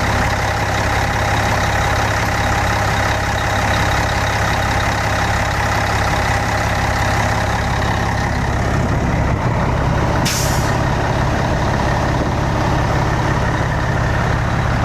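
Scania K113 coach's 11-litre straight-six diesel engine idling steadily, with a short hiss of released air, like an air-brake or air-suspension valve, about ten seconds in.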